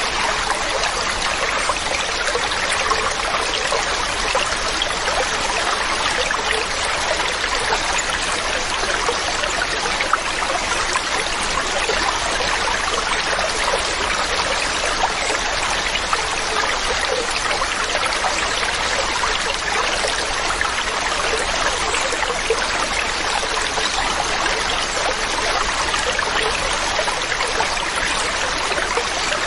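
Waterfall's water splashing in a steady, unbroken rush, with a fine crackle of spray and trickles.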